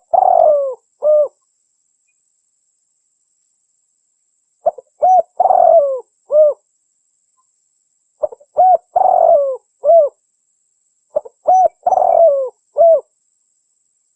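Spotted dove (tekukur) calling: four phrases of the same song, each a few short notes, a longer coo bending up and down and a final note, repeated about every three to four seconds. It is a recorded call used to lure wild spotted doves.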